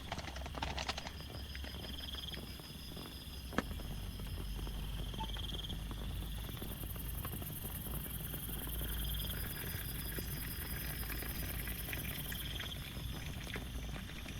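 Steady rain with scattered drip taps, under a chorus of high pulsed animal trills that come and go in bouts; a higher buzzing trill joins about six seconds in and stops near the end.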